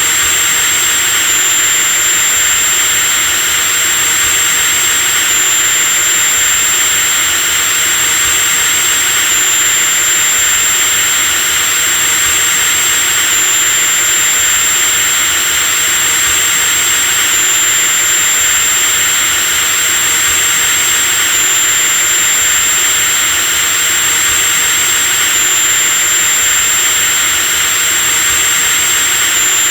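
Power drill running continuously at a steady speed, a constant motor noise topped by a high-pitched whine.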